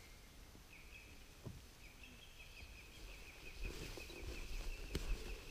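A bird singing a long, unbroken string of quick, repeated high notes. From about halfway through, footsteps on the forest path come in and grow louder.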